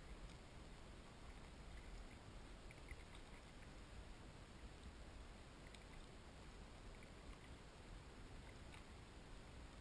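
Near silence on a kayak: faint steady hiss and low rumble with a few soft ticks of water dripping off a paddle.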